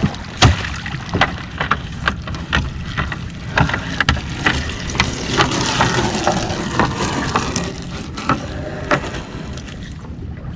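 A crab gillnet being hauled aboard a small fishing boat: irregular knocks and clatter against the hull, with water splashing heavily for a few seconds in the middle, over a steady low rumble.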